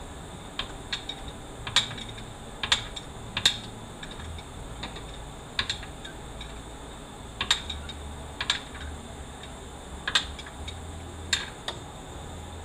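Sharp metallic clicks and clinks of hand tools and parts being handled during 4L80E automatic transmission disassembly, about a dozen, single and in small clusters at irregular intervals.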